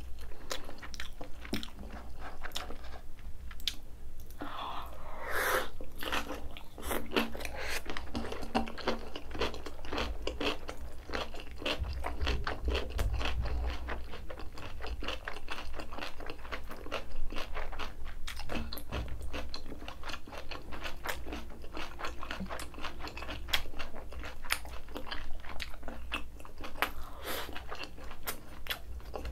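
Close-miked chewing of spicy napa cabbage kimchi: a steady run of wet crunching with many small crisp clicks.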